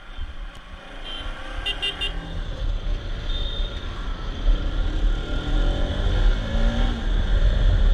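Bajaj Pulsar RS200 single-cylinder engine pulling away and speeding up, its rumble and the wind noise growing louder. A vehicle horn toots a few times in quick succession about two seconds in.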